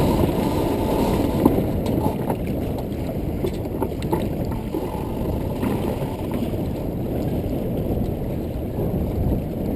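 Strong wind buffeting the microphone over water rushing along the hull of a 1977 O'Day 22 sailboat under way, a steady rumbling noise with a few faint ticks.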